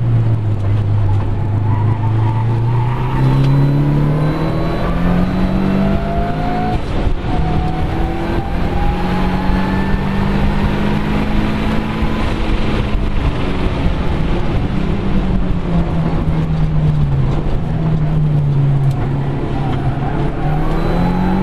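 Mitsubishi Lancer Evolution 6.5's turbocharged four-cylinder engine under hard driving on a circuit lap. It climbs in pitch as it accelerates about three seconds in and holds high revs for several seconds, then falls away around the middle as the car slows for a corner and climbs again near the end.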